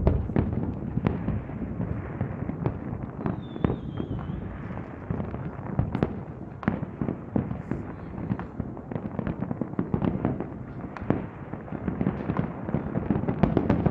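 Fireworks display: a continuous low rumble packed with irregular bangs and crackles, the louder reports coming every second or so, and a brief high whistle about three and a half seconds in.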